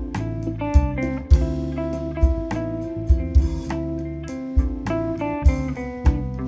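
A small instrumental band playing live: guitar notes over a bass line and a drum kit, with regular sharp drum hits and cymbal strikes.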